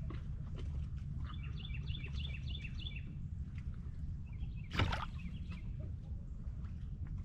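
A songbird singing two runs of quick, repeated high chirping notes, over a steady low rumble. A single sharp knock sounds about five seconds in.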